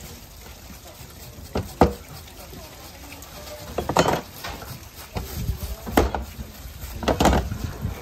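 Irregular sharp knocks and clatter of hard objects being handled: two close together a little under two seconds in, then more around four, six and seven seconds, over a background murmur.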